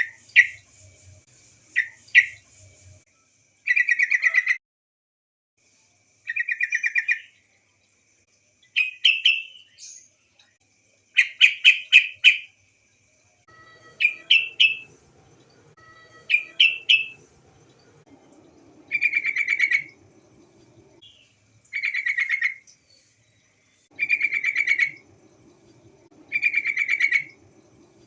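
Female yellow-vented bulbul (trucukan) calling: short bursts of rapid, chattering notes, repeated every two to three seconds. This is the female's call to a male.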